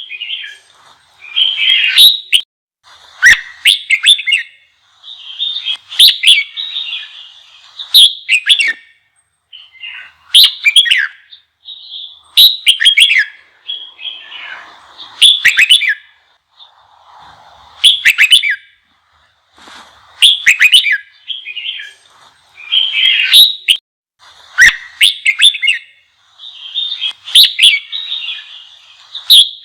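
Red-whiskered bulbul singing loud, quick warbled phrases, one about every two seconds. It is the fired-up, challenging song used to provoke newly caught bulbuls into singing back.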